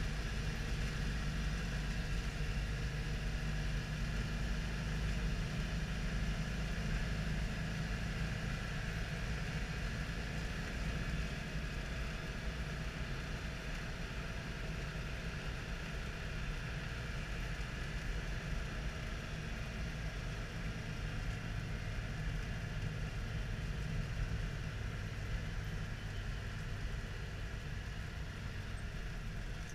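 Citroën Dyane 6's small air-cooled flat-twin engine running steadily while driving, heard from inside the cabin together with road noise, easing slightly in level after about ten seconds.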